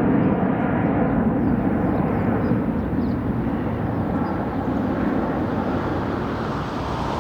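Jet engine noise of an Airbus A319-131's two IAE V2500 turbofans after takeoff: a broad, steady rumble that slowly fades as the airliner climbs away.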